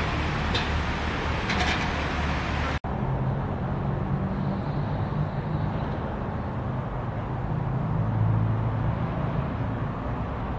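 A vehicle's engine running with a steady low hum and a noisy rumble. About three seconds in, the sound drops out for an instant and then goes on duller.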